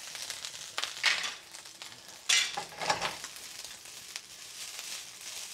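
Rice and egg sizzling in a hot stainless steel frying pan as they are stirred with a wooden spatula and the pan is tossed, with a few louder bursts of sizzling and scraping about one, two and three seconds in.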